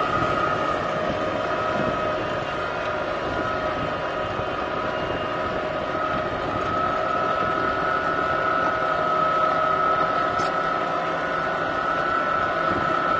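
Tractor engine running steadily under load while pulling a plow, with a steady high whine over the engine note.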